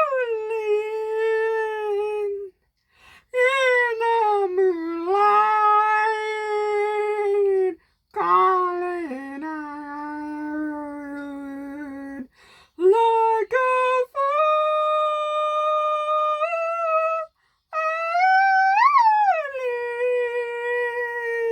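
A single unaccompanied voice singing long, wordless, held notes in about six phrases with short breaths between them. Near the start and again near the end, a note swoops up in pitch and falls back before being held.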